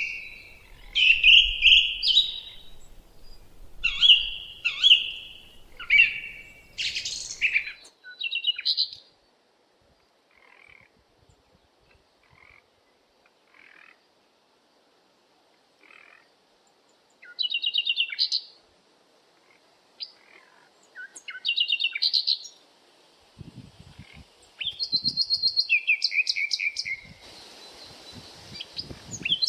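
Songbirds singing in short chirping and trilled phrases separated by pauses. There is a near-quiet stretch of faint, scattered notes in the middle, and then loud rapid trills return about halfway through.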